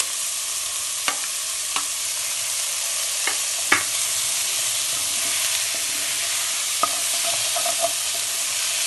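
Chicken, onion, tomato and freshly added radish sizzling steadily as they fry in a nonstick pan, while a spoon stirs them, knocking against the pan about six times, most sharply a little under four seconds in.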